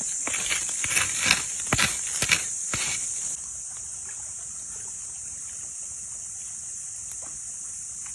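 A steady high-pitched insect buzz. For the first three seconds there are a dozen or so sharp knocks and clicks over it, and then the level drops suddenly, leaving only the buzz.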